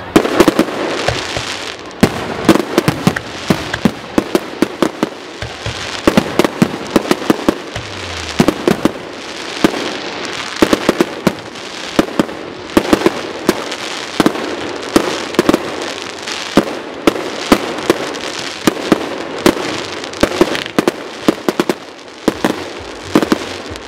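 Firework battery firing in quick succession: a rapid, irregular run of sharp bangs over crackling.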